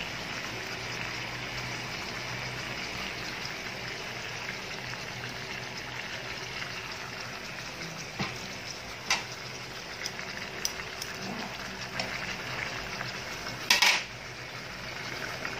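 Tanigue fish steaks sizzling in oil and soy sauce in a frying pan, a steady sizzle. A few sharp clicks come in the second half, and a louder short knock near the end.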